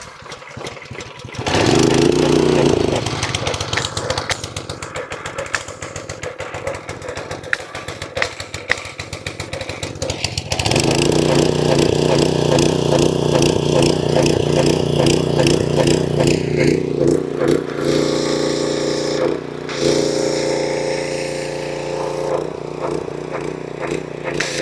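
A cordless power tool's motor running in spurts with a fast rattling hammer, driving home bolts on the pressure washer's cover.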